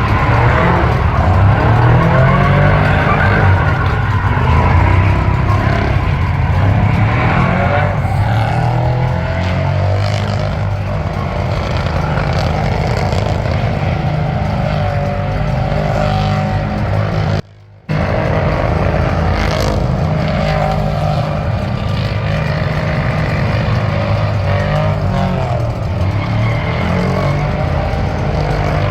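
Truck V8 engine held at high revs with tyre squeal, typical of a burnout; the revs waver up and down. The sound cuts out for an instant about two-thirds of the way through, then resumes.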